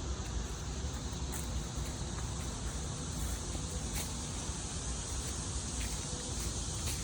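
Insects, crickets or similar, chirring steadily in a high, even drone, over a low rumble.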